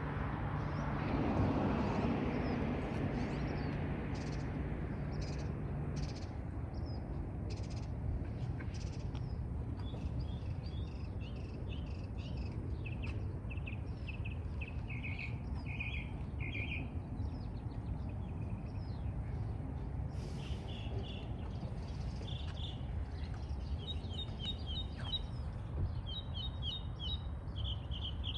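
Birds chirping in short repeated high phrases over a steady low outdoor rumble. A louder swell of noise comes in the first few seconds, and the chirping starts about a third of the way in.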